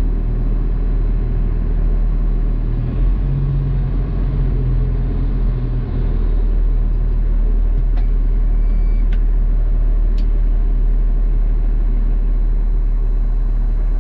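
Garbage truck engine running steadily with a low rumble, heard from inside the cab. A few short sharp clicks come in the second half.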